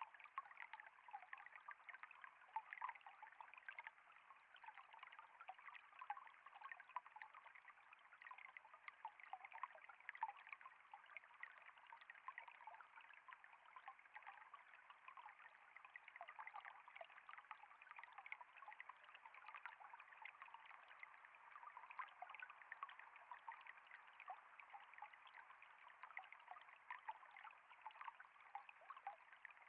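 Faint, steady trickle of flowing water, a dense patter of small splashes that never lets up.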